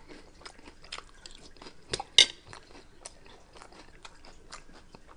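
A person chewing Flaming Hot Cheetos nachos close to the microphone: a run of small crunches and wet mouth clicks, with one louder crunch about two seconds in.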